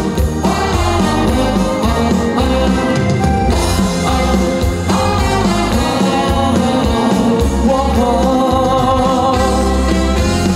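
Live band playing an upbeat pop song with a strong bass beat, a voice singing the melody over it.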